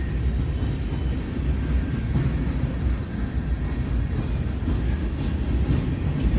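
Train rolling past on the rails: a steady low rumble with faint scattered clicks.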